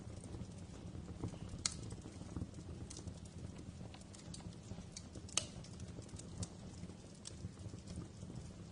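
Wood fire in a fireplace crackling: irregular sharp pops and snaps over a low steady rumble, with the loudest pops about two seconds and five and a half seconds in.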